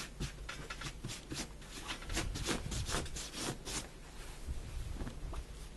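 Cotton shirt fabric being handled and rubbed: a run of quick rustling scrapes, thickest in the middle and thinning out near the end.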